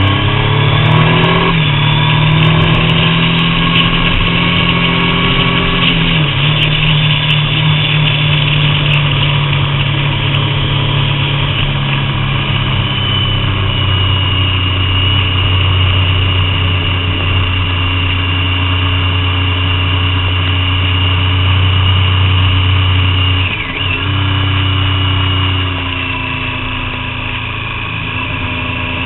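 Triumph Daytona 675's three-cylinder engine under way, heard from the bike itself with wind noise. It revs up at the start and then holds steady riding revs, with a brief dip in revs about six seconds in and a sharper one near the end as the throttle is eased or a gear changes.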